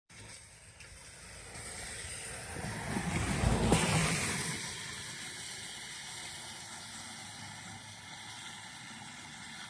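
A vehicle passing by: it builds up, is loudest about three and a half seconds in, then fades with a falling pitch.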